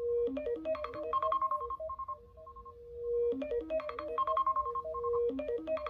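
A phone ringtone melody looping: a held note, then a quick run of short plucked-sounding notes, starting over about every three seconds.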